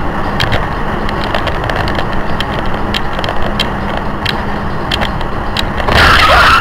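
Steady noise of a moving road vehicle, with scattered clicks and knocks. A louder sound begins near the end.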